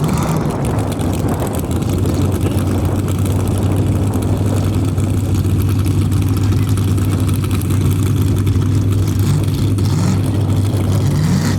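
Formula Offroad race car engine running steadily at a low, even pitch, with a few short rises in revs near the end.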